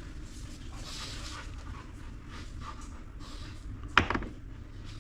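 Quiet handling noise from work on a water pump casting: a few soft hissing puffs and one sharp knock about four seconds in.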